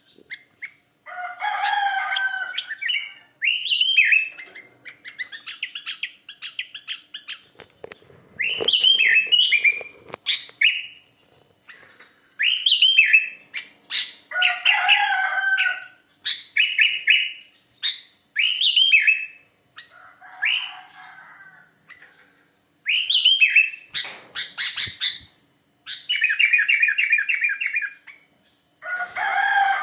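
Sooty-headed bulbul (kutilang) singing: short, quick, warbling phrases repeated every second or two, with brief gaps between. Twice the song is broken by a spell of short rustling noises.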